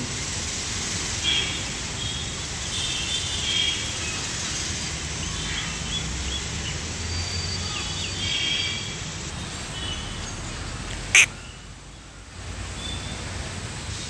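Short bird calls, repeated several times over steady outdoor background noise, with one sharp click about eleven seconds in.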